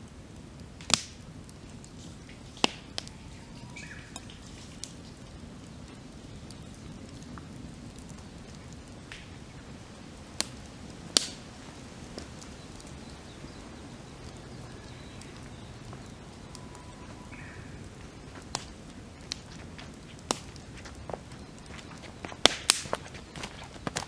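Wood campfire crackling, with occasional sharp pops spread irregularly and a quick cluster near the end. Faint bird calls come twice in the background.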